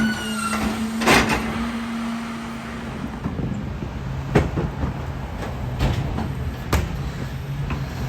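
Peterbilt 520 rear-loader garbage truck with a Heil DuraPack 5000 body, running, with a steady whine that stops about three seconds in. A lower steady hum follows, broken by several sharp metallic clanks from the truck.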